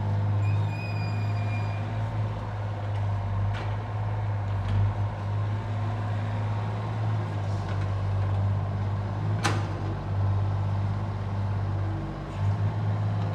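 Engine of heavy earthmoving machinery running steadily with a deep, even hum. A brief high squeal comes early on, and a single sharp metallic knock about nine and a half seconds in.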